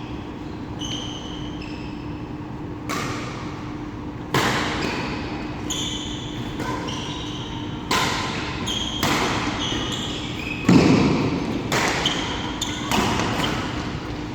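Badminton doubles rally: sharp racket hits on the shuttlecock about once a second, with sports shoes squeaking on the court floor between shots. The heaviest hit lands about eleven seconds in.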